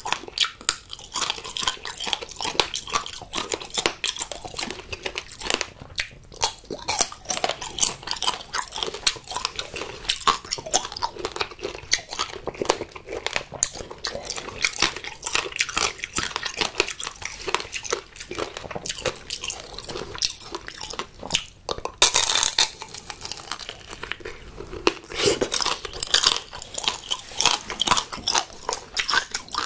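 Close-miked crunching and chewing of tanghulu: the hard, glassy sugar shell on candied green grapes cracks between the teeth in rapid irregular crackles. About two-thirds through, a louder crisp bite comes as a candied mandarin is bitten into.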